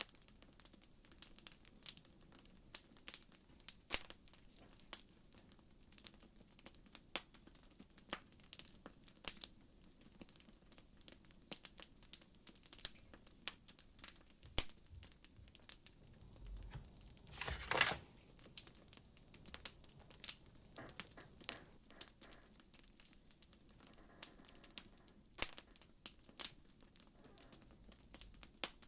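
Wood fire crackling: irregular small pops and snaps over a soft hiss, with one longer, louder burst of crackling about seventeen seconds in.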